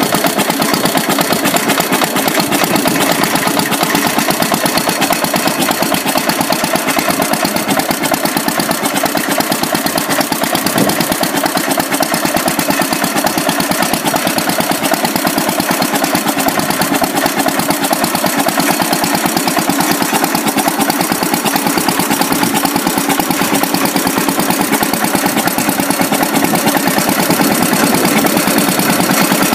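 Antique hit-and-miss engine running and driving a belted jaw rock crusher, making a dense, steady mechanical clatter.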